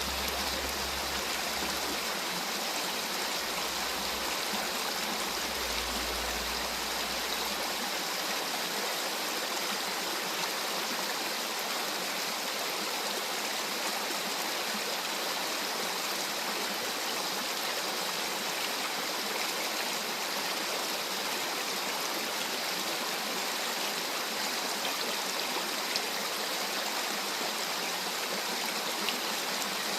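Mountain stream rushing steadily over rocks, a constant even wash of flowing water.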